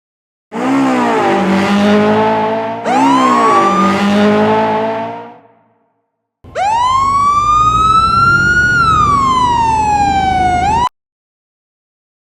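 A car engine sound effect revs up twice, then a siren wails once: rising slowly, falling, then turning sharply up just before it cuts off suddenly.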